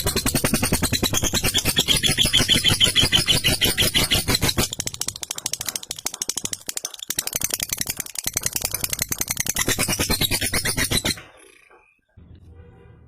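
Lovebird 'ngekek': a long, rapid rattling chatter of fast repeated notes. It breaks off abruptly about eleven seconds in.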